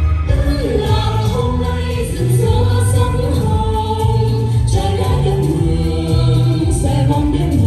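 A group of voices singing together over loud backing music with a prominent bass line.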